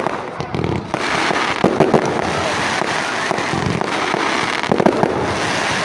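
Fireworks going off in a display: a sharp bang at the start, then a dense, continuous crackling rattle of small bursts, with a few louder bangs scattered through it.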